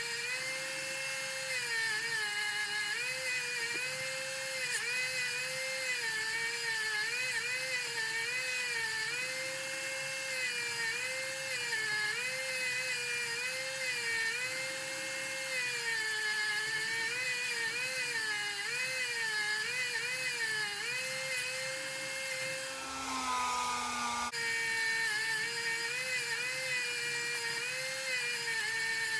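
A small electric power tool, such as a rotary tool or drill, running at speed. Its pitch dips and recovers again and again as it is pressed into the work. About 23 seconds in it winds down and stops, then starts up again a second or so later.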